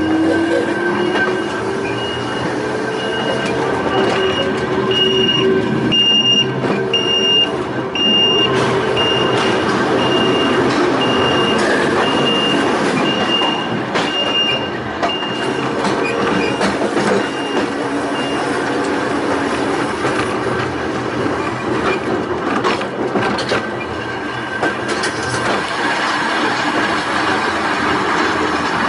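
Volk's Electric Railway car running along the track: a rising electric-motor whine as it gathers speed, the steady rumble of the car with scattered clicks over the rail joints. A repeated high electronic beep sounds with it, swelling and then fading away a little past halfway.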